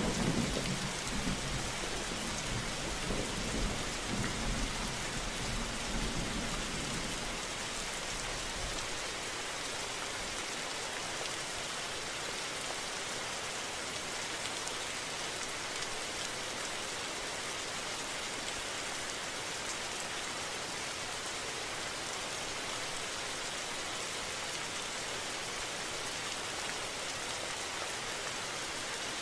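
Steady rain falling, an even hiss. A low rumble, thunder, fades out over the first eight or nine seconds.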